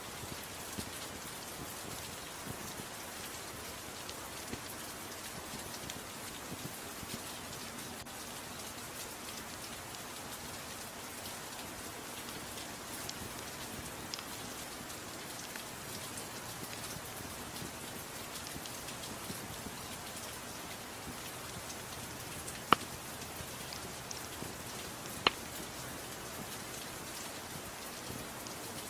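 Soft, steady rain mixed with a fireplace fire: scattered faint crackles over the even hiss of the rain, and two sharp pops a few seconds apart near the end.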